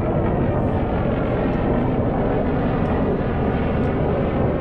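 Steady rumble of military aircraft engines during an air-show attack demonstration.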